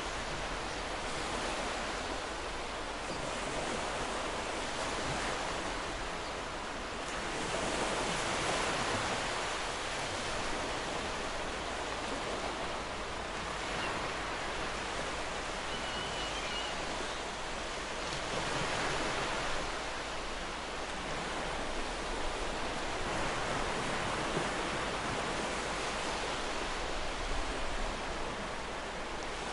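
Sea waves breaking and washing up on a beach: a steady rush of surf that swells and eases every several seconds.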